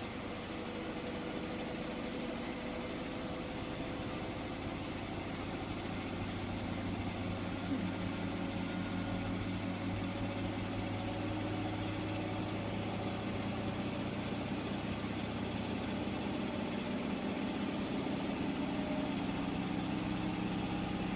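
Hotpoint washing machine running in the last minute of its cycle: a steady motor hum with a whine that creeps slowly upward in pitch, and a single click about eight seconds in.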